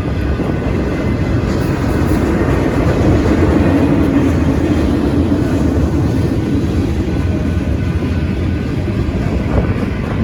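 Union Pacific freight train rolling past close by: a steady, loud rumble of wheels and engines that grows a little louder around the middle.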